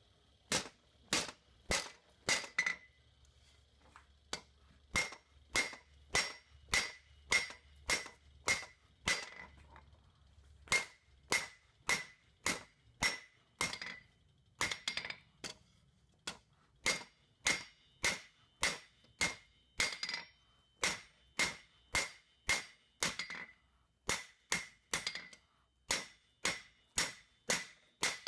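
Blacksmith's hand hammer striking a hot 5/8-inch square steel bar on an anvil, forging a snub end. Steady blows about two a second in runs with a few short pauses, each strike ringing.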